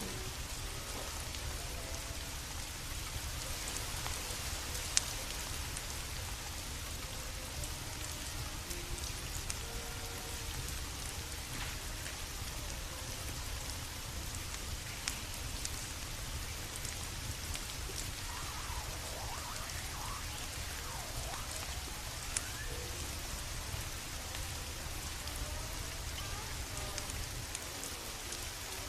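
Steady rain falling, with a low steady rumble underneath. A few sharp clicks or pops stand out about five, fifteen and twenty-two seconds in.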